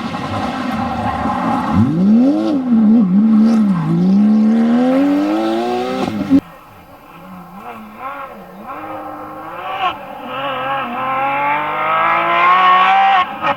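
Porsche 911 GT3 RS rally car's flat-six engine at full throttle, its pitch dipping and rising with lifts and gear changes and then climbing steadily before cutting off abruptly about six seconds in. A second, quieter run follows, the engine wavering and then climbing steadily in pitch and loudness toward the end.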